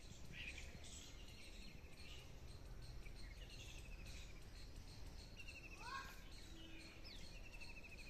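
Faint outdoor birdsong: a small bird repeating short, rapid trills of quick high notes several times, with a swooping call about six seconds in, over a low background rumble.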